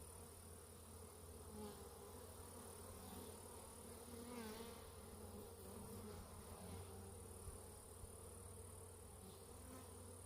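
Faint buzzing of Carniolan honeybees flying close by, the hum wavering up and down in pitch as individual bees pass.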